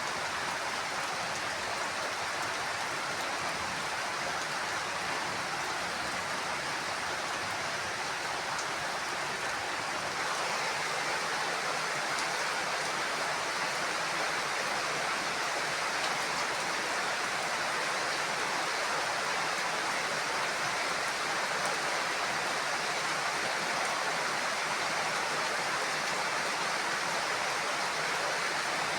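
Heavy rain falling in a steady, dense hiss, growing a little louder about a third of the way in. No thunder claps are heard.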